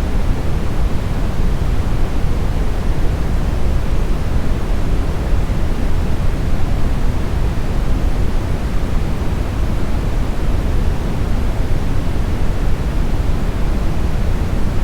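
Steady synthetic brown noise, a deep, smooth hiss weighted heavily to the low end and fading toward the highs, with no change and no other events.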